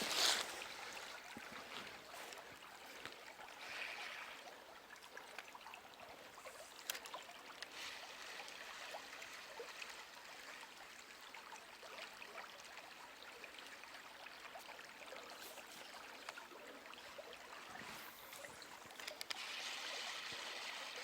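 Stream water running and trickling steadily, with a few faint clicks of handling on top and a louder stretch of water near the end.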